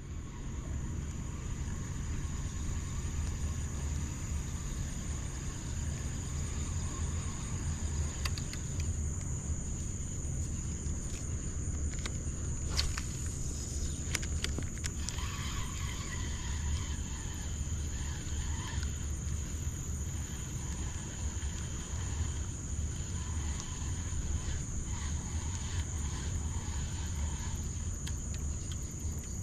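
Steady high-pitched chirring of insects such as crickets, over a low steady rumble. A few short clicks and ticks come in the middle.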